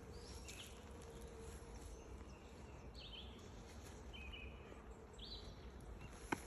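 Birds chirping, short high calls about once a second, over a faint steady hum of honeybees around an open hive. A single sharp click sounds near the end.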